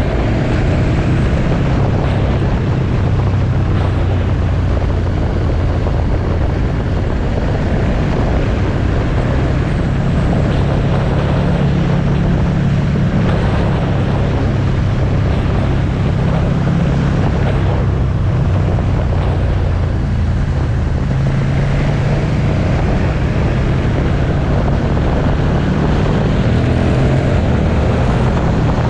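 Motorcycle engine running steadily on the road, its note drifting slightly up and down with speed, with wind noise buffeting the microphone.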